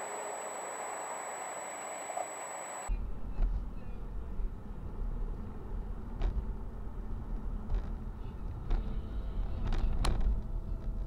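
Dashcam recording of a car on the road: a steady hiss of road and wind noise, then a sudden cut about three seconds in to a deeper, louder rumble with several sharp clicks or knocks, the strongest near the end.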